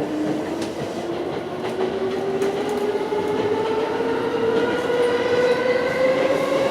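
JR E233 series 7000 electric train's traction motors whining, the whine rising steadily in pitch and growing louder as the train accelerates, over the rumble of the wheels with a few faint clicks from the rails.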